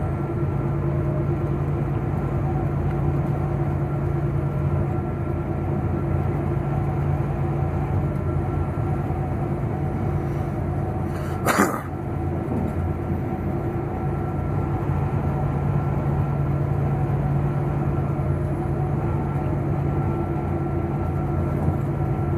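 Semi truck's diesel engine and road noise droning steadily while driving down the highway, with one brief, sharp, loud sound about halfway through.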